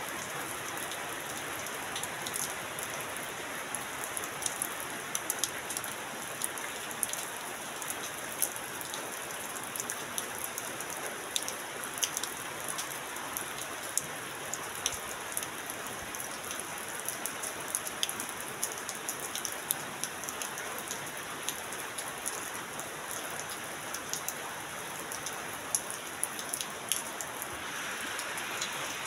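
Heavy rain falling, a steady hiss with many sharp drips and taps scattered through it, heard from under a corrugated metal roof.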